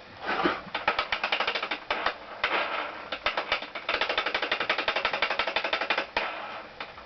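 Ratchet wrench clicking fast in several runs of strokes, with short pauses between them.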